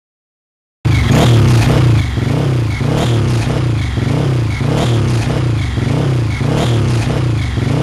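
Motorcycle engine running hard, cutting in suddenly about a second in; its pitch rises and drops again and again, about once a second.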